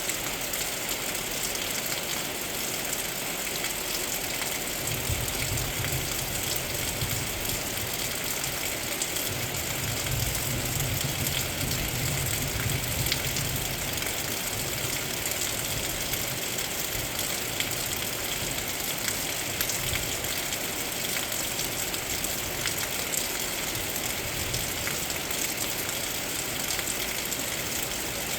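Heavy rain falling steadily, with a low rumble of thunder rising a few seconds in and fading away about halfway through.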